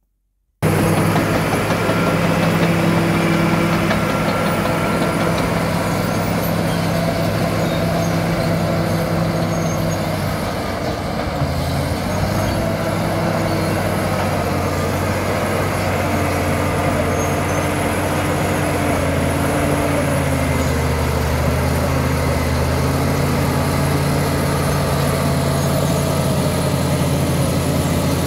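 Caterpillar D7 bulldozer's diesel engine running steadily, cutting in suddenly just after the start. About halfway through, its note dips and settles a little lower.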